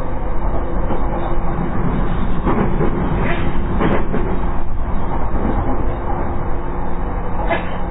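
Inside a JR East E233 series electric train running on the line: steady rumble of wheels on rail, with the low steady hum of the IGBT-VVVF inverter and traction motors. A few louder rattles come a couple of seconds in and again near the end.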